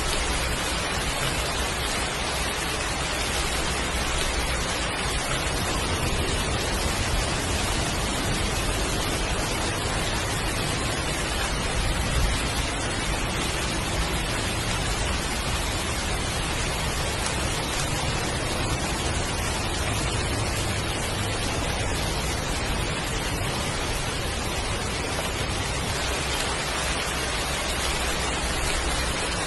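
Heavy, steady downpour of rain, an even hiss with no breaks.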